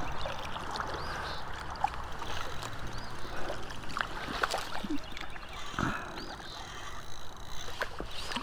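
River current running steadily, with scattered small splashes and water drips.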